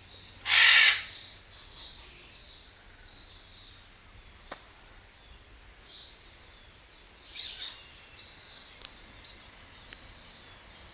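Scarlet macaw giving one loud, harsh squawk about half a second in, followed by faint high chirps and calls of other birds.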